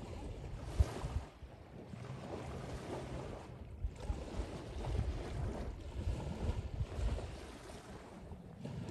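Wind gusting across the microphone by the sea, a rough low rumble with the wash of the sea behind it, and a sharp bump just under a second in.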